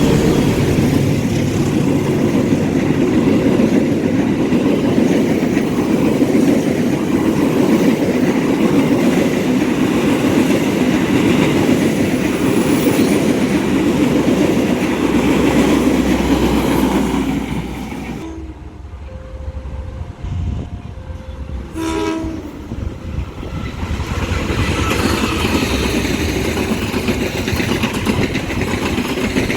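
A train passing close by, its wheels clattering over the rails. The noise dies down for a few seconds about two-thirds of the way through, then builds again.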